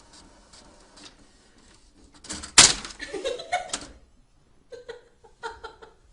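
A sudden loud bang, like a knock or slam, about two and a half seconds in, with clattering for about a second after it, then a few short voice-like sounds near the end.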